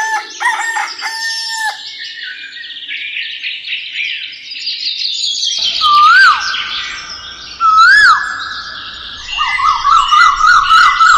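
Farmyard birdsong: small birds chirping busily throughout, with a rooster crowing twice, about six and eight seconds in.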